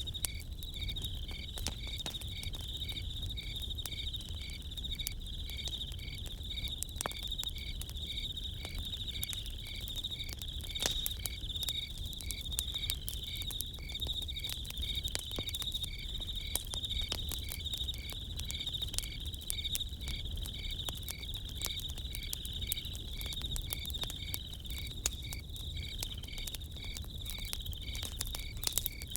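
Night-time chorus of crickets and other insects: a steady high trill with evenly pulsing chirps beneath it. Over it a campfire crackles, with frequent short, sharp pops and snaps.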